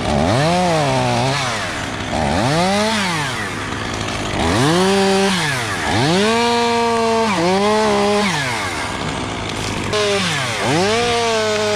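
Chainsaw cutting in about six short throttle bursts, its pitch rising, holding briefly under load and falling away with each cut, over a steady low hum.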